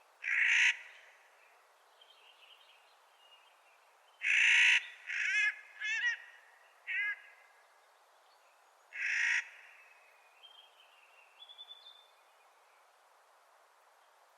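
Clark's nutcracker giving three loud, harsh, grating calls, about four to five seconds apart. After the second call come a few quicker wavering notes, and fainter soft notes sound between the calls.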